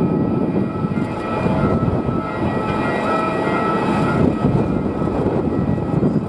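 Jet airliner engines running steadily, a dense rumble with a high whine over it.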